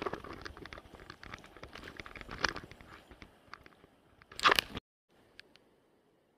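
Irregular crunching and clicking of footsteps on stream stones and gravel, with a louder crunch about four and a half seconds in; the sound then cuts off suddenly to a faint hiss.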